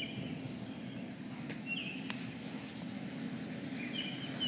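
Songbird chirping in short high notes that step down in pitch, three brief phrases, over a steady low background rumble.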